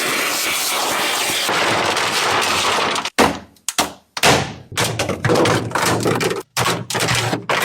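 Workshop restoration noise: a steady hiss of tool work, then a run of short, abruptly cut bursts of scraping and thudding work on the car.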